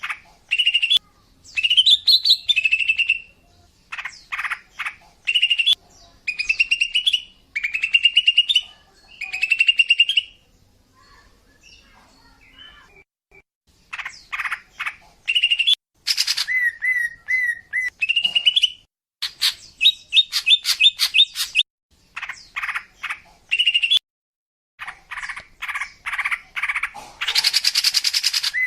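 Female green leafbird (cucak ijo) calling in repeated short phrases of rapid chattering notes and warbled trills, with short pauses between them. A harsher rasping note comes near the end.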